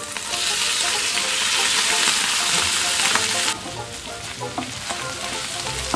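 Boiled clam meat hitting hot coconut oil in a non-stick pan and sizzling loudly. About three and a half seconds in the sizzle drops suddenly to a quieter, steady frying as the meat is stirred with a wooden spatula.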